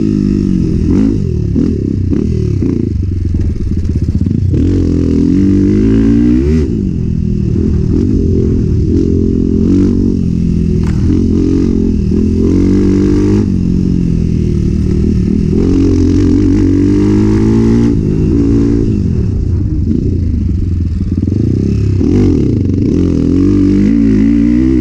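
Enduro motorcycle engine under hard riding, its pitch climbing with the throttle and dropping again every second or two as the rider shifts and backs off.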